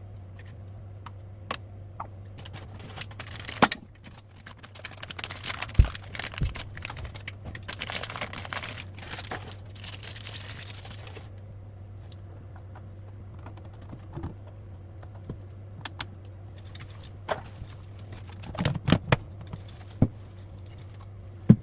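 Clicks, taps and rattles of plastic toilet-tank fill-valve parts being handled, with a hissing, rustling stretch in the middle and a steady low hum underneath.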